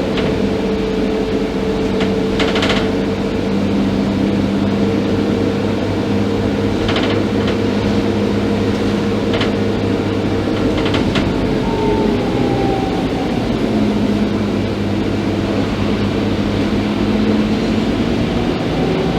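Scania K310IB bus running, with a steady whine whose pitch drops about twelve seconds in, and a few short rattles.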